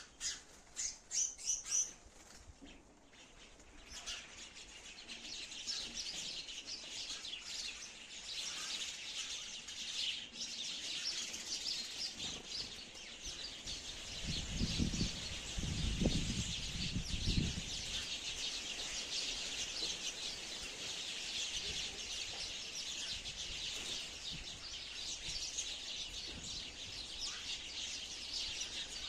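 A flock of sparrows chirping. A few loud single chirps come in the first two seconds, then rapid, overlapping chirps carry on continuously. A few low thumps come about halfway through.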